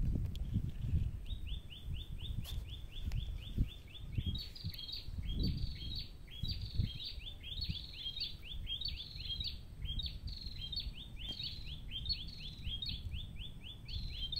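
A bird calling with a rapid string of high chirps, several a second, that starts about a second in and keeps going, with louder notes every so often. Low rumbling and a few soft thumps lie underneath.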